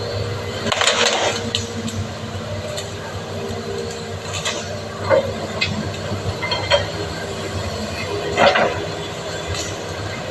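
Excavator's diesel engine running steadily, with several short metallic clanks over it.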